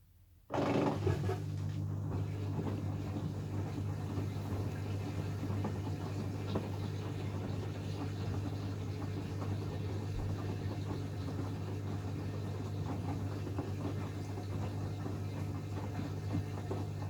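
Hoover Axi 9 kg washing machine starting up suddenly after a quiet pause and then running steadily with a low hum, with light irregular patter and ticking on top, during its rinse cycle.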